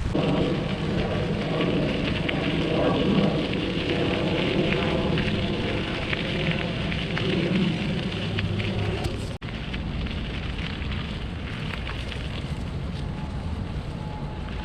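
Rushing, crackling noise of riding a bicycle: wind buffeting the microphone and tyres crackling over the path. The sound cuts out for an instant about nine seconds in.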